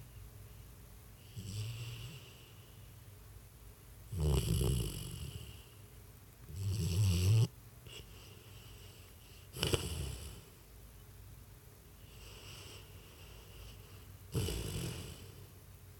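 A sleeping springer spaniel snoring, with about six snores every two to three seconds, some loud and some faint.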